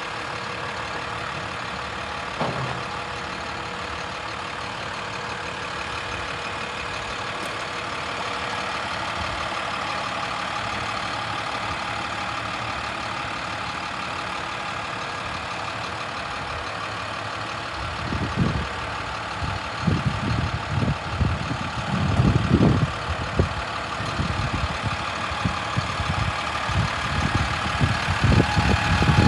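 MaxxForce DT diesel engine of a utility truck running steadily. From about 18 seconds in, irregular low rumbling and thumping comes in over it.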